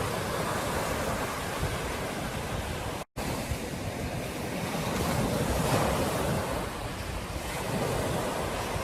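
Ocean surf breaking on a beach: a steady rush of waves that swells louder a little past the middle, with wind buffeting the microphone. The sound cuts out completely for an instant about three seconds in.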